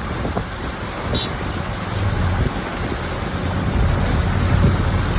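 Heavy rain pouring steadily, a dense even hiss, with a low rumbling underneath.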